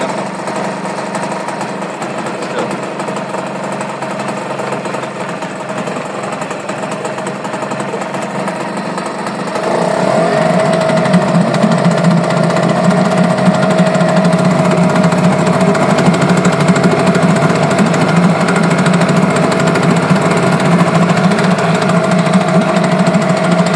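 Mariner 4 hp two-stroke outboard motor running steadily, then throttled up about ten seconds in and held at the higher speed, louder and with a stronger, higher note.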